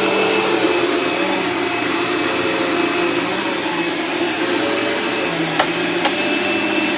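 Dirt Devil Ultra Vision upright vacuum cleaner running steadily while picking up shredded paper from carpet, with two sharp clicks about two-thirds of the way through.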